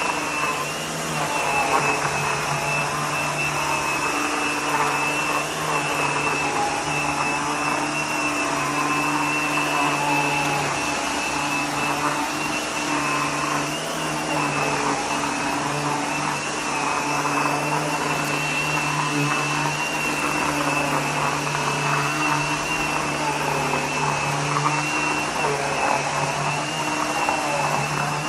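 Vacuum cleaner running steadily as it is worked over an entryway mat, a constant motor whine over airflow hiss with small rises and dips in level.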